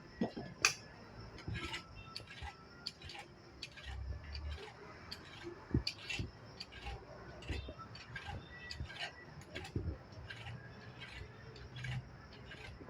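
A cat chewing crunchy food: irregular sharp clicks and crunches, several a second.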